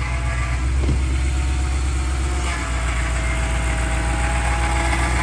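BMW Motorsport P65 4.4-litre V8, the Z4 GT3 race engine, idling steadily and smoothly just after its first start.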